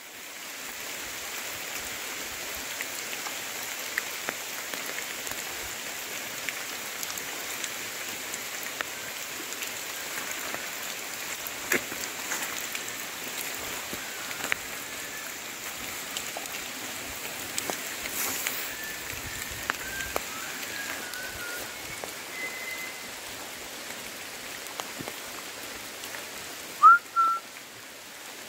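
Steady monsoon rain falling through forest, with scattered drips. A Malabar whistling thrush gives a few short whistled notes in the second half, the loudest a quick rising whistle near the end.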